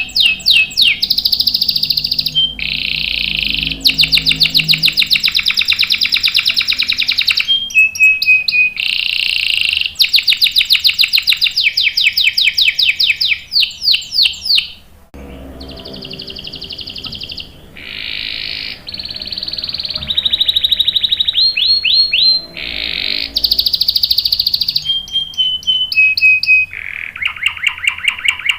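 Canary singing long rolls: fast runs of rapidly repeated high notes, broken by short pauses and brief single whistled notes, with a softer, quieter passage about halfway through.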